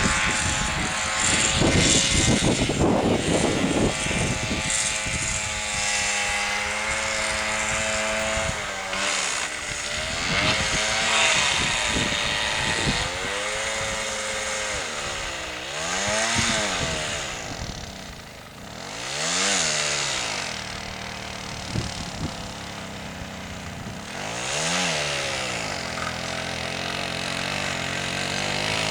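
The single-cylinder two-stroke engine of a homemade snowmobile built from a Minsk motorcycle, running and revving, its pitch rising and falling again and again.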